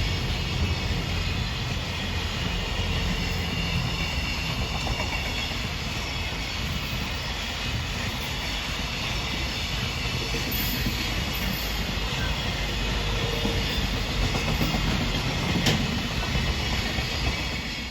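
A JR freight train passing close by: a steady rumble of the wagons' wheels running over the rails, with a sharp click about three-quarters of the way through.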